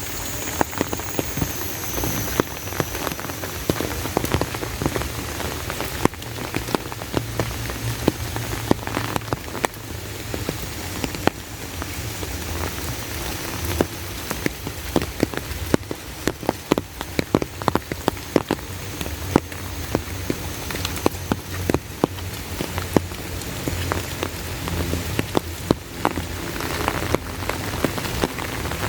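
Heavy rain falling steadily, with many sharp, irregular taps of close raindrops over the even hiss.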